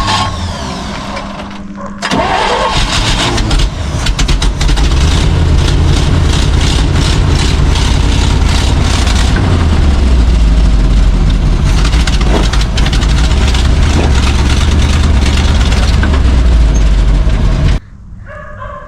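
Old Chevrolet C60 wrecker's carbureted engine running loud and steady. It dips briefly, picks up again about two seconds in, and cuts off suddenly near the end.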